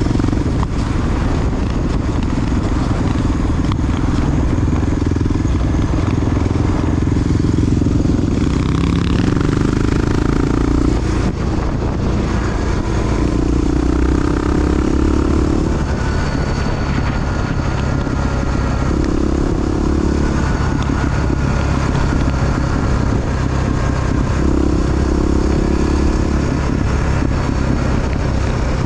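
Big single-cylinder four-stroke Honda XR dual-sport motorcycle running steadily under way, its engine note shifting up and down several times as the revs change.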